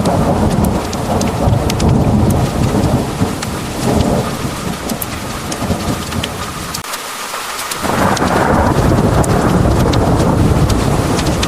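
Heavy rain pouring down with sharp ticks of drops striking a hard surface, over a low rolling rumble of thunder. The rumble fades briefly past the middle, then swells louder about eight seconds in.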